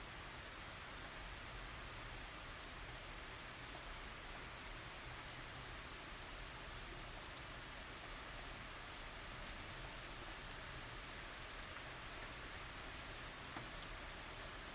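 Steady tropical rain falling, a constant hiss with many small drop ticks and no thunder.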